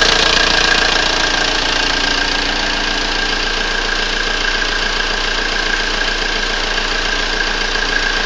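Audi 80's high-mileage (411,000 km) 1.9 TDI four-cylinder turbodiesel engine running steadily, with a steady high whine over it. The engine makes a strange noise whose source the owner cannot place.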